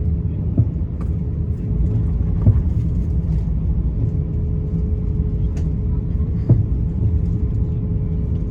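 Cabin noise inside an Airbus A350-900 on the ground before takeoff, likely taxiing: a steady low rumble from the airliner at idle thrust, with a faint steady hum above it. A few light thumps come through the floor, the sharpest about two and a half and six and a half seconds in.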